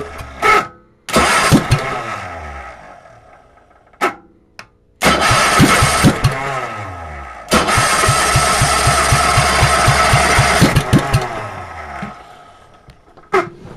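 10-horsepower Tecumseh engine being cranked and catching in several short tries, each burst of firing slowing and dying away. A longer stretch of even putting in the middle also winds down and stops near the end. It fires but won't keep running, which the owner takes for idling too low.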